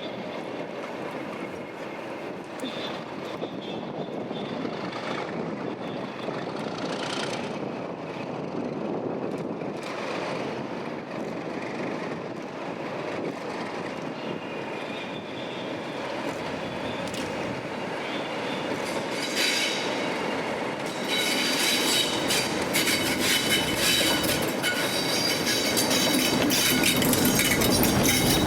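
Train running on the rails and growing louder. From about two-thirds of the way in come rapid clicking of wheels over the track and a high metallic wheel squeal.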